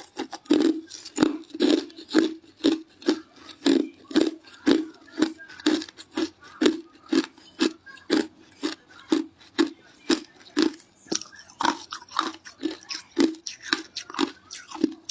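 Ice being chewed close to the microphone: crisp crunches repeating steadily about twice a second.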